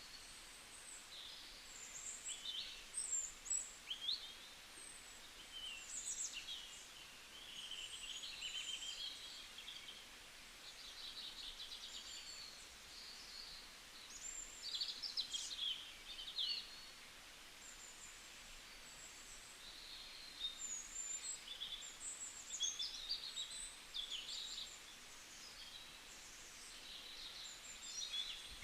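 Several small birds chirping and twittering, their calls overlapping in busy clusters with short lulls between them.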